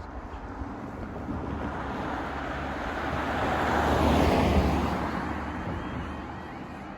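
A car driving past, its road noise swelling to a peak about four seconds in and then fading away.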